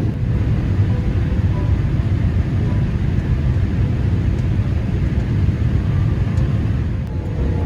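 Steady low rumble of a Boeing 787-8 airliner heard from inside the economy cabin: engine and airflow noise.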